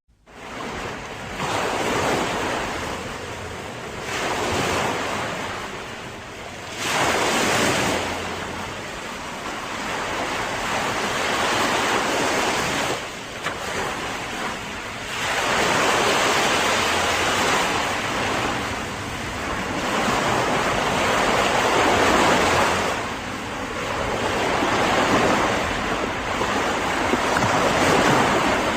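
Ocean waves breaking and washing up the shore, fading in at the start and then swelling and ebbing in surges every few seconds.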